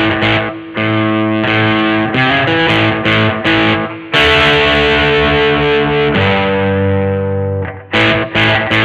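1982 Vantage VE-550 electric guitar played: a run of picked notes and chords, then a chord left ringing from about four seconds in, shifting once, and dying away near the end before the picking starts again.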